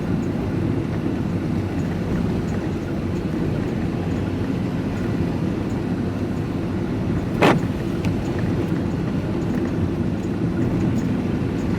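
Steady road and engine noise heard inside a moving vehicle's cab, with a single sharp knock about two-thirds of the way through.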